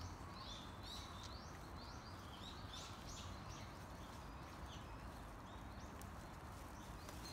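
Faint bird chirps, short and high, repeating about twice a second over a steady hiss of outdoor background noise.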